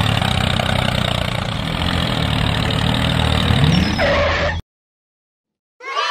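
Tractor engine running steadily, then cut off abruptly about four and a half seconds in. After a second or so of silence, a new pitched sound starts near the end.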